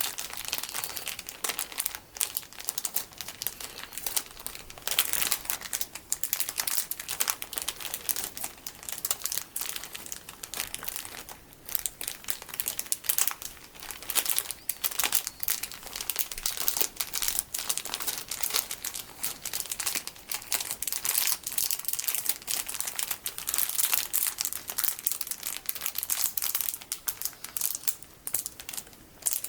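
Sticky beads in plastic packaging being squeezed and handled: continuous dense crinkling and crackling of the plastic, fine and crisp.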